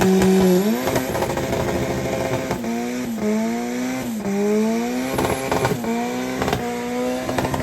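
Car engine accelerating hard through several gear changes, its pitch climbing and dropping back at each shift, with sharp pops over the exhaust note.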